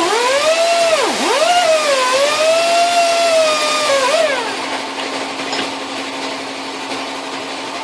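A handheld electric power tool whining, its pitch sagging and recovering as it is pressed into the work and dipping sharply about a second in. The whine cuts out about four seconds in, leaving a quieter hiss and a steady hum.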